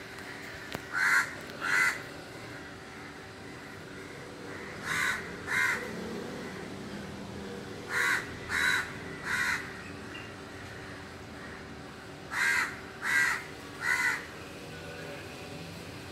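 A bird calling in short repeated calls, in groups of two and three: two about a second in, two near five seconds, three around eight to nine seconds and three around twelve to fourteen seconds.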